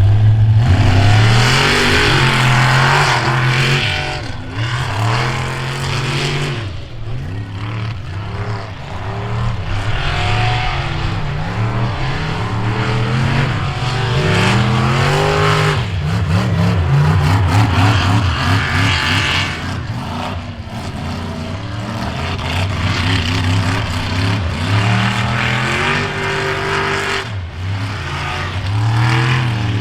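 Off-road vehicle engines revving hard again and again, the pitch climbing and dropping with each burst of throttle.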